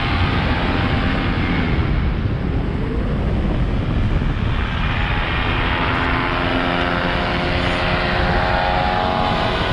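Paramotor engine and propeller running in flight, with wind rush on the microphone; the engine's note blurs and shifts a little in the middle, then holds steady.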